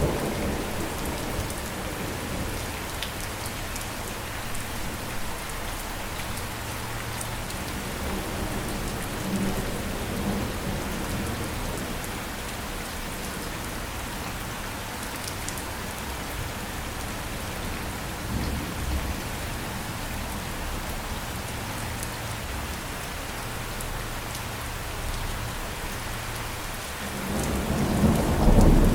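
Steady rain falling, with low thunder rumbling in the background. A louder roll of thunder swells up near the end.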